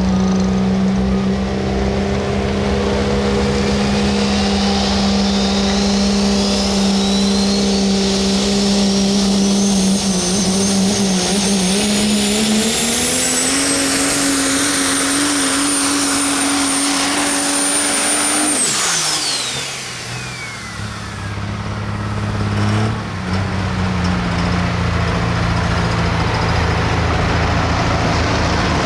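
Engine of a super modified four-wheel-drive pulling truck running steadily, then revving higher about 12 seconds in and holding there, with a high whistle that climbs for several seconds. About 19 seconds in the engine and whistle drop away together, and a lower, steady engine note follows.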